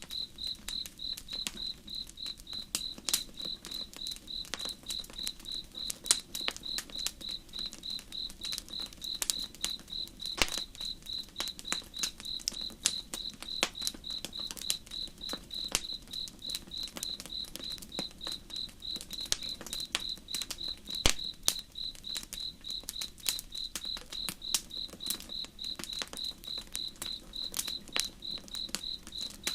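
Crickets chirping steadily in a regular high pulsing rhythm, over the scattered sharp pops and crackles of a wood campfire, with a faint low rush of river water beneath.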